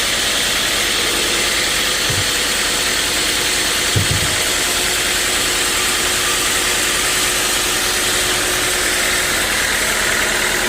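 Sawmill machinery running steadily with a continuous mechanical hiss and hum, and a couple of dull low thumps about two and four seconds in.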